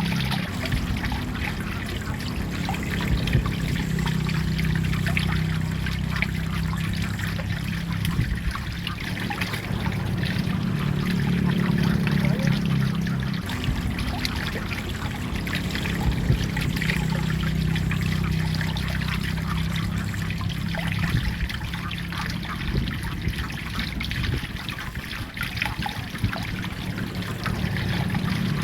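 Water trickling and splashing steadily, over a steady low hum.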